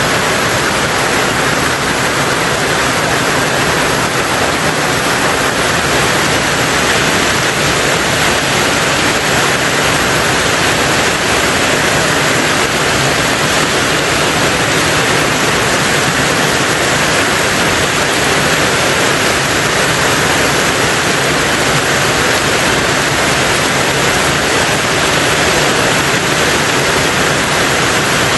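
Steady heavy rain on a tin roof: a dense, even hiss in which no single drops stand out.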